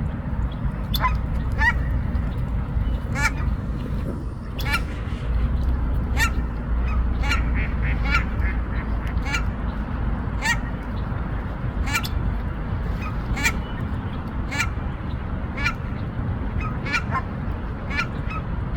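Canada geese honking, with short honks repeating about once a second over a steady low rumble.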